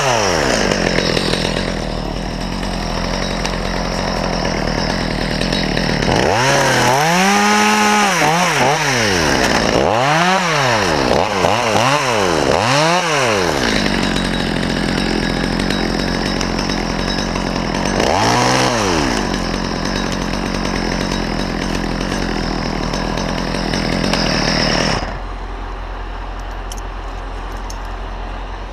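Chainsaw running throughout, revved up and back down several times, with the pitch rising and falling in each surge. About three-quarters of the way through, the saw's high whine drops away suddenly, leaving a quieter, steady low engine hum.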